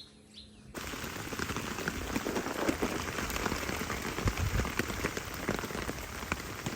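Heavy rain pattering on a tent, a dense patter of many separate drops that begins suddenly under a second in.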